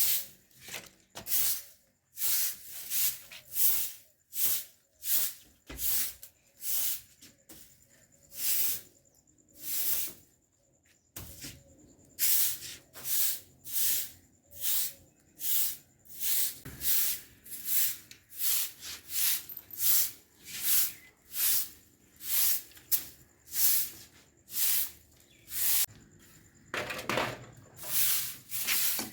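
Rhythmic hissing scraping strokes, about one to two a second, with a brief pause about ten seconds in.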